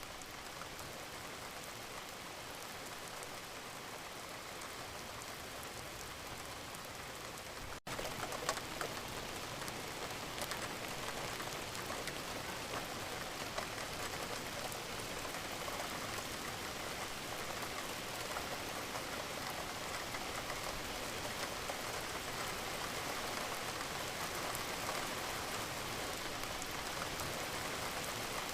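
Wood fire burning in a fireplace with steady fine crackling and occasional small pops. About eight seconds in, the sound drops out for an instant and comes back a little louder.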